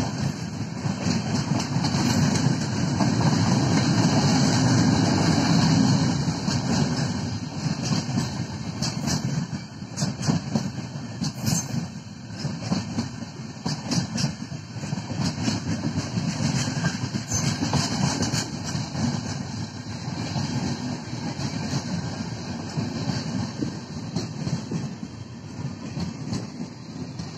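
Indian Railways express passenger coaches passing close by at about 100 km/h: a steady rush of wheels on rail, loudest in the first several seconds. Sharp clacks come through the middle as the wheels cross rail joints, and the sound eases off toward the end.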